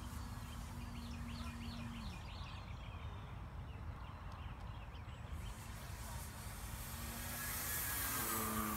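Radio-controlled model airplane's motor running with a steady drone that drops in pitch and fades about two seconds in, then comes back rising, growing to its loudest near the end. Birds chirp in between, over a steady low rumble.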